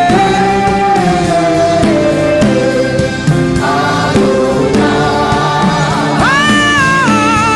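Gospel worship music: a sung vocal line of long held notes that glide between pitches, over steady sustained backing, with choir-like voices. A new, higher phrase comes in about six seconds in.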